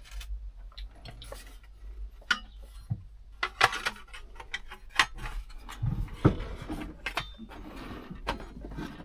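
Handling noise: irregular clicks, knocks and light rattles as radio units and fittings are moved about and held against the parcel shelf of a truck cab to test the fit.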